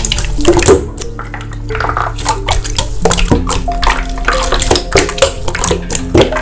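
Slime being squished and pressed by hand, giving many quick wet clicks and pops, over background music with held chords that change about three seconds in.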